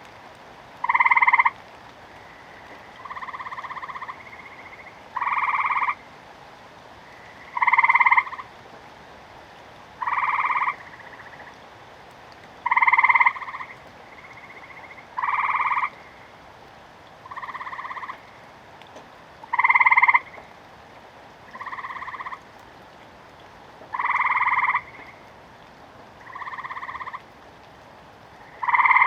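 Frogs croaking: a call repeated about every two and a half seconds, each just under a second long, alternating louder and softer calls.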